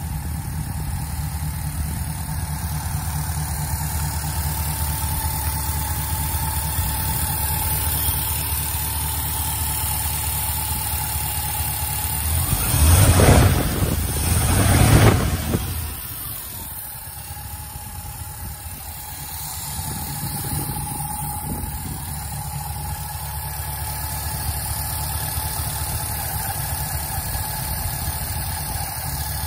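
Ford flathead V8 running on electronic fuel injection (twin Holley 94 carburettors converted to throttle bodies), idling steadily. About halfway through, the throttle is blipped twice, revving briefly, and then the engine drops back and settles to idle.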